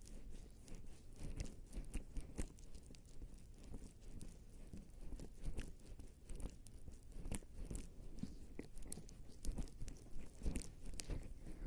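Faint, irregular sticky crackling and clicking of skin coated in lubricating jelly rubbing against an ASMR microphone.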